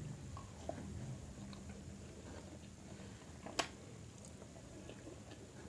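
Faint chewing of food close to the microphone, small wet mouth clicks, with one sharp click about three and a half seconds in.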